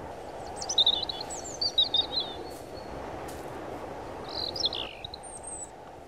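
Songbirds chirping in two quick clusters of high notes, then a short thin whistle near the end, over a steady low hiss of outdoor background noise.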